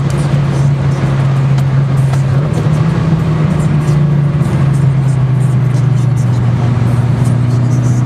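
Mitsubishi Lancer Evolution IX's turbocharged four-cylinder engine heard from inside the cabin, running at nearly steady revs. It rises a little about two seconds in and settles back about halfway through, over a steady hiss of tyres on wet road.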